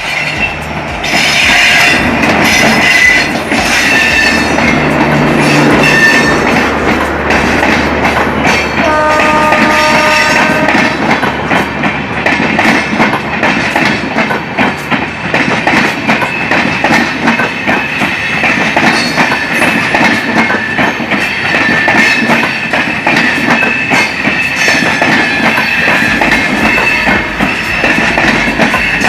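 Passenger express train pulling into a station, its wheels clattering over the rail joints with a steady high-pitched squeal of braking wheels. The horn sounds once, for about two seconds, around nine seconds in.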